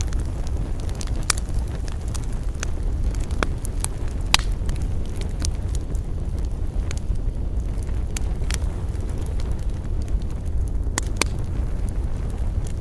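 Wood campfire burning with a steady low rumble and frequent sharp crackles and pops at irregular intervals, one louder pop a little over four seconds in.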